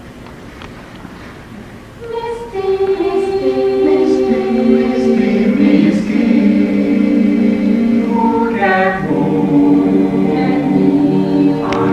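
Choir singing sustained chords, entering about two seconds in after a brief quiet moment with a few faint clicks.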